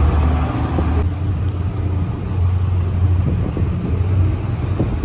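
City transit bus diesel engine running, a steady low rumble; a high hiss stops about a second in.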